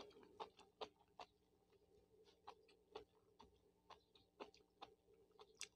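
Faint, irregular clicks of a person chewing a mouthful of noodles with her lips closed.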